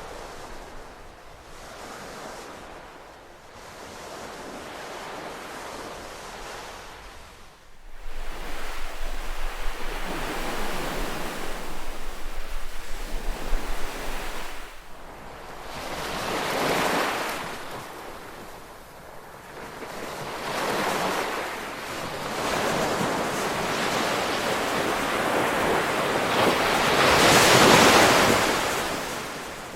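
Ocean waves surging and breaking on a shore, the rush rising and falling in swells. It turns abruptly louder about 8 seconds in, and the biggest wave crashes near the end.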